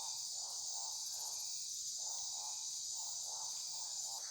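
Night-time rainforest insect chorus: a steady high shrill of crickets and other insects, with a lower call pulsing about twice a second beneath it.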